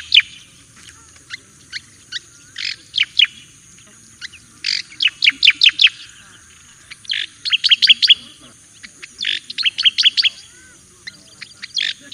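Striated grassbird (cica-koreng jawa) singing: repeated short phrases of quick, sharp, downslurred whistled notes, a new phrase about every two seconds.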